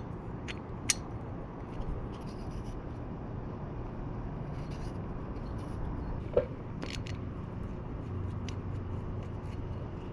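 A few sharp metal clicks and clinks of small engine parts and tools being handled during top-end assembly of a 125cc pit bike engine, over a steady low hum. The loudest click comes about a second in; another just after six seconds rings briefly.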